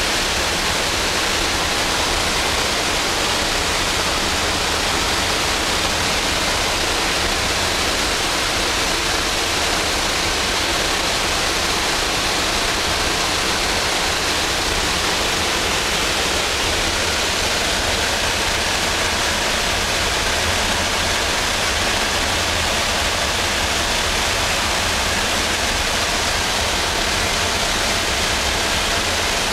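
Steady rushing wind and engine noise inside the cabin of a C-27J Spartan turboprop transport flying with its doors open, with a deep rumble underneath and no change throughout.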